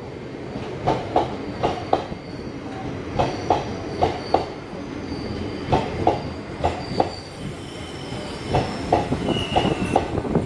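Passenger coaches of an Indian Railways express train rolling in along the platform. The wheels knock over the rail joints in quick pairs, clickety-clack, and high thin wheel squeals come and go over a steady rumble.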